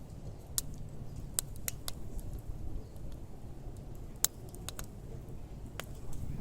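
Scattered light clicks and taps, about nine or ten at uneven intervals, as of small hard objects being handled, over a low steady rumble.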